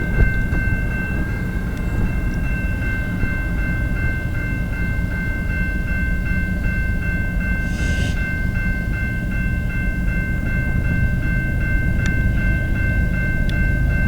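Approaching freight train rumbling, under the steady repeated ringing of a level-crossing bell. A short hiss comes about eight seconds in, and two sharp clicks near the end.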